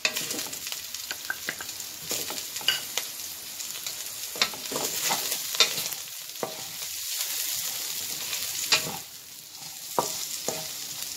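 Cubed pork, ginger and chopped onion sizzling in rendered pork fat in a metal wok, with a wooden spatula scraping and knocking irregularly against the pan as they are stirred.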